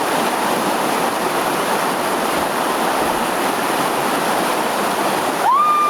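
Steady rush of moving water. Near the end a short high call rises and holds.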